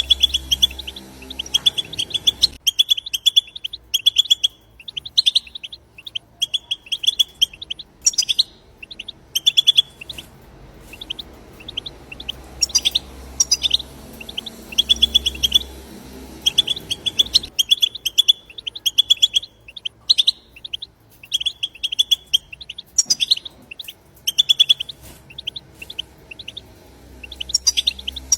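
European goldfinch song: rapid, twittering chatter in short bursts of quick repeated notes, one phrase after another with brief pauses between them.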